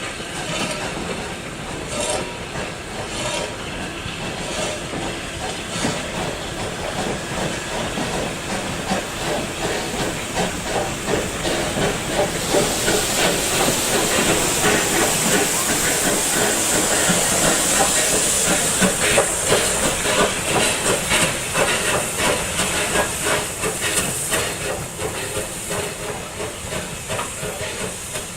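Steam locomotive running with a regular beat, and a loud hiss of escaping steam that comes in about halfway and carries on nearly to the end.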